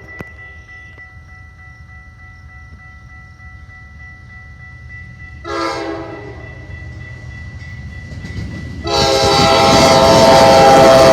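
Horn of an approaching Amtrak train led by GE Dash 8 locomotives: a short blast about halfway through, then a long, loud blast from near the end with the rumble of the train rolling in, the horn's pitch sagging slightly as it nears. Faint steady ringing tones sound underneath in the quieter first half.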